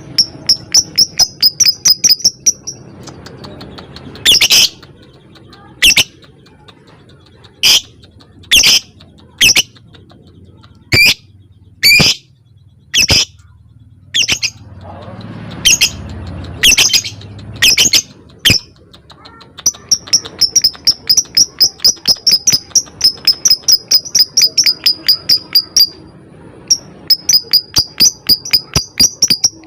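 Lovebird calling: fast trains of high, sharp ticking chirps (the 'ngetik' call) at the start and again through the second half. In between come single loud shrill calls about once a second.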